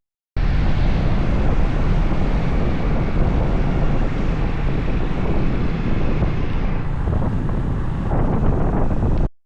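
Steady rush of wind buffeting the microphone with vehicle road noise, as heard riding a motor scooter.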